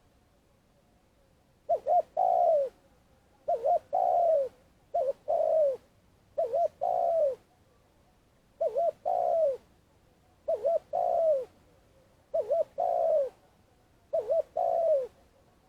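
Spotted dove cooing its long calling song: seven repeated phrases about two seconds apart, each two short quick coos followed by a longer coo that falls in pitch.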